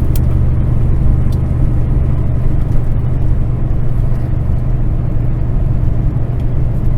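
Kenworth semi truck's diesel engine and drivetrain running in a steady low drone inside the cab, pulling gently at low road speed while the truck is still warming up after a cold start.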